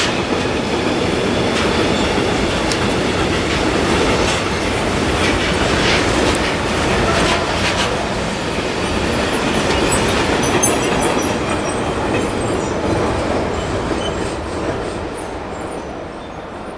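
A train passing on the track, its wheels clattering over rail joints with scattered sharp clacks. Its sound fades away over the last few seconds.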